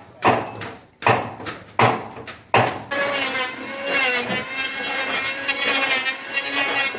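Hand sawing through wood, four strokes about three-quarters of a second apart. About three seconds in, it gives way to a steady, wavering pitched sound.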